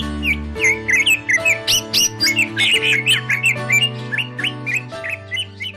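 Cucak ijo (greater green leafbird) singing a rapid, varied string of chirps and whistled notes over background music with sustained chords.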